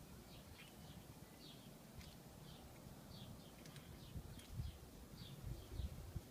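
Small bird chirping in the background, short high chirps repeating about twice a second, with a few low thumps about four to six seconds in.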